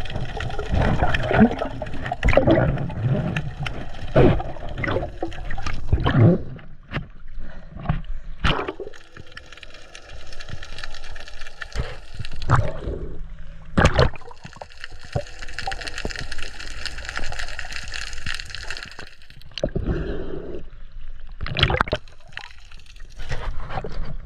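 Water gurgling and sloshing around a GoPro camera held underwater, with irregular knocks and thumps and a steady high hum in the background.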